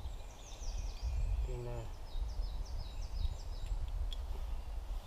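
Small birds singing: repeated short falling chirps through most of the stretch, over a steady low rumble. A brief low voice-like sound comes about a second and a half in.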